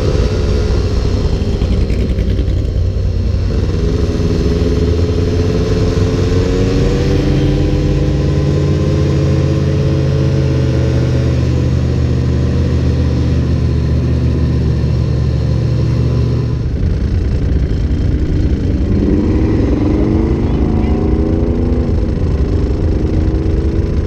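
Motor vehicle engines running, their pitch rising and falling as they speed up and slow down, over a steady low engine drone that drops away about two thirds of the way in; near the end another engine climbs in pitch as it accelerates.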